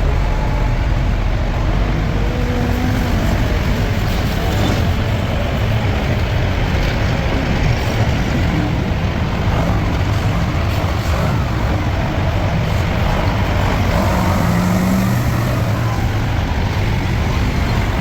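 Heavy vehicle engine running steadily, a continuous low-heavy rumble with no breaks.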